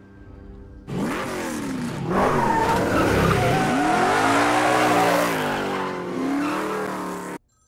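1970 Chevrolet Chevelle SS V8 revving hard as it accelerates away, its engine note rising and falling through several gear changes, with tyre squeal as it pulls away. The sound starts about a second in and cuts off suddenly near the end.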